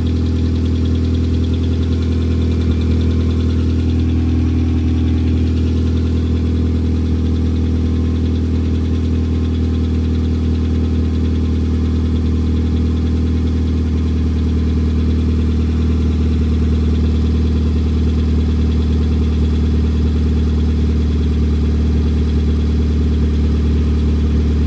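2004 Hyundai Elantra's four-cylinder engine idling steadily after a cold start, with valve-train noise that the owner takes for lifters, bearings and rocker arms running before the oil has circulated.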